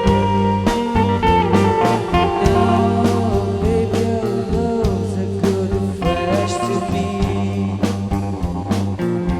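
Psychedelic rock band playing an instrumental passage: electric guitar with bent notes over bass and a steady drum beat.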